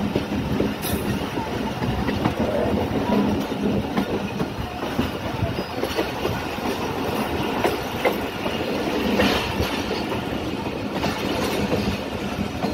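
Pakistan Railways passenger train running along the track: a steady rolling rumble with occasional sharp clacks of the wheels over rail joints.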